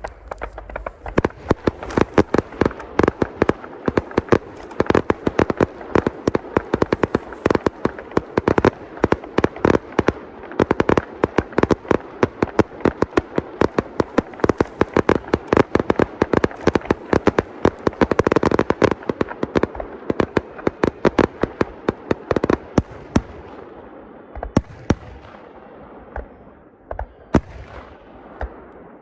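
Fireworks display: a dense barrage of bangs and crackling bursts, many per second, thinning to scattered bangs near the end.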